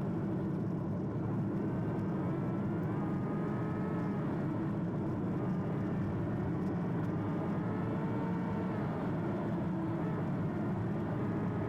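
Toyota Prius driving along a forest logging road, heard from inside the cabin: steady low road and tyre rumble, with a faint wavering whine above it.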